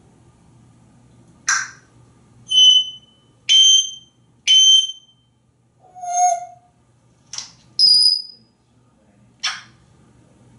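African grey parrot giving a string of short whistles and clicks, about one a second. Three clear whistle notes come in a row, then a lower hooting note, then a higher whistle, with sharp clicks in between.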